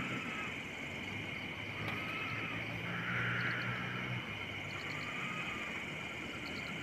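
Night-time forest chorus of calling insects: a steady high trill, with a second call that comes and goes every second or two and faint quick clicking chirps in small groups.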